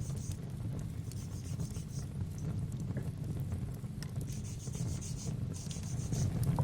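Fireplace ambience: a steady low rumble with a few faint crackles. Over it come short bouts of quick, high rasping strokes of a nail file on acrylic nails, two of them in the second half.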